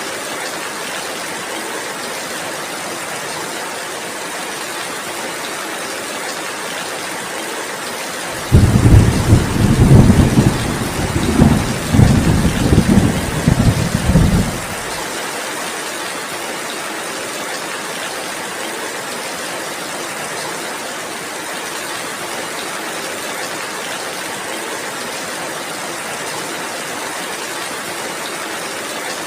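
Heavy rain falling steadily. About eight seconds in, a roll of thunder rumbles in several swells for about six seconds, then cuts off abruptly, leaving the rain.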